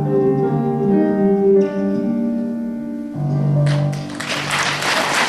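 Closing notes of an instrumental accompaniment, sustained chords then a final low note, followed about two-thirds of the way in by audience applause breaking out at the end of the song.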